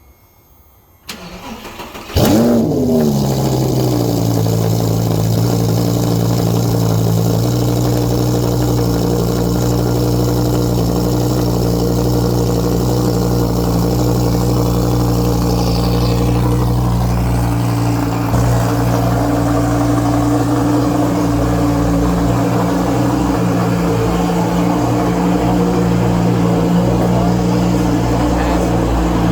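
2012 Audi R8's 5.2-litre V10, straight-piped through a centre exhaust, cold-starting: the starter turns it over for about a second, the engine catches with a loud flare that quickly falls away, then it settles into a steady, loud fast cold idle.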